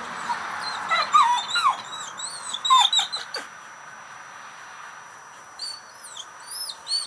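Dog whining in short, high-pitched whimpers: a run of them in the first few seconds, then a few more near the end.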